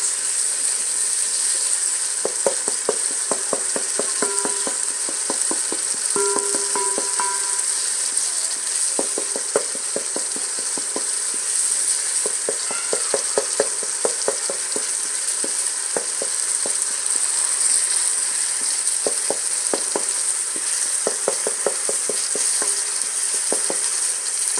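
Tomatoes, onions and ginger-garlic sizzling in a cooking pot, with a steady hiss, while a spoon stirs and scrapes against the pot in repeated runs of quick strokes.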